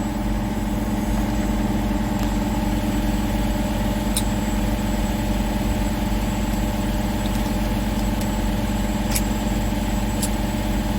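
Steady machine drone, like an idling engine, holding one even pitch throughout, with a few faint light clicks.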